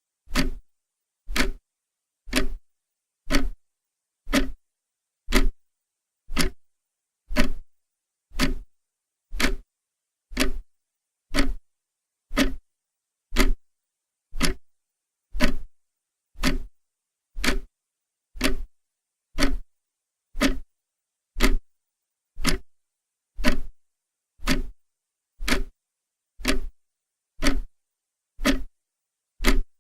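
Clock ticking steadily, one sharp tick a second with silence between ticks.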